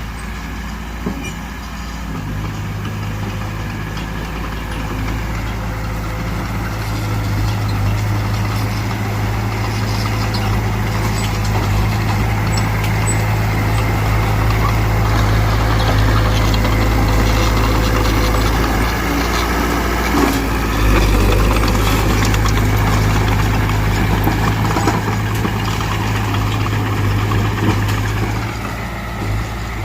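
Mitsubishi BD2F bulldozer's diesel engine running steadily with a deep hum. It grows louder over the first several seconds, then eases off a little near the end.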